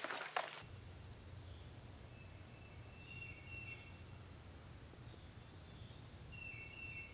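Faint songbirds calling: short high whistled notes and chirps every second or two over a steady low rumble of background noise, with a couple of sharp clicks right at the start.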